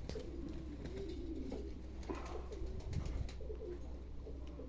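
Domestic pigeons cooing, several low calls one after another.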